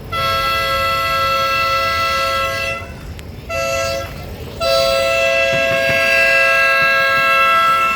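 Train horn sounding a chord of several steady notes in three blasts: a long one of nearly three seconds, a short one, then another long one, in the rhythm of a grade-crossing signal.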